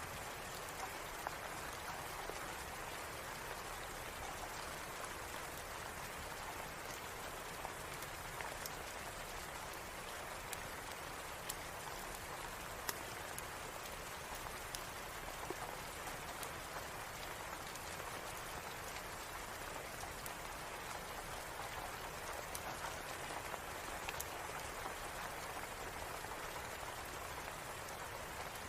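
Steady rain falling, an even hiss with scattered sharp clicks and ticks, some of them likely fireplace crackles.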